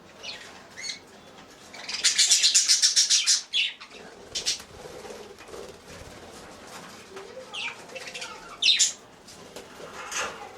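Budgerigars chirping in short, sharp calls, with a rapid burst of wing flapping about two seconds in that lasts about a second and a half.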